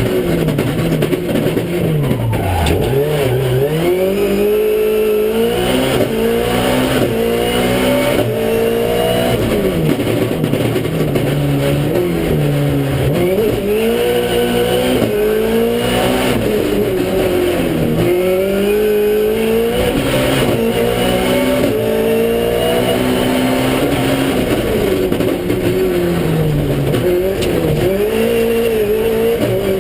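Toyota Starlet race car's 1600cc engine heard from inside the car on track: it revs up through the gears, stepping down at each quick sequential-gearbox shift, and drops sharply under braking before climbing again, over and over.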